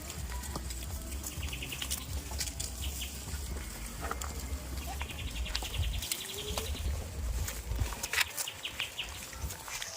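Farmyard ambience: small birds chirping in short rapid trills, with scattered clicks and taps over a steady low rumble.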